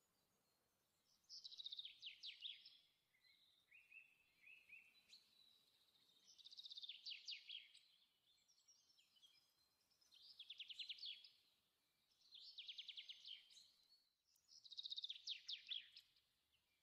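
Faint bird song: a songbird repeating quick trilled phrases, each about a second long and falling in pitch, one every two to three seconds.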